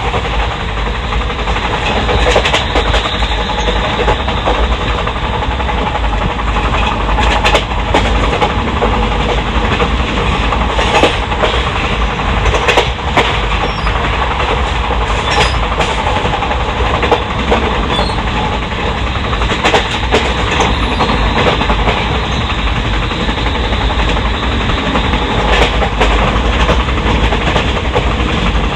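Track noise heard on board a fast-moving Indian Railways ICF passenger coach: a continuous rumble of wheels on rail, with scattered sharp clicks and knocks from the rail joints.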